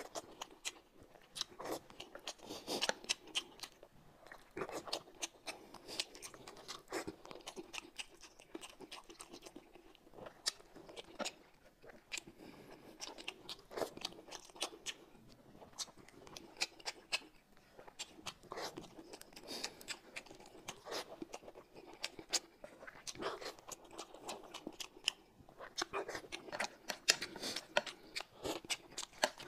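A person eating boiled dumplings with chopsticks: close-up wet chewing and mouth smacks, with many irregular sharp clicks.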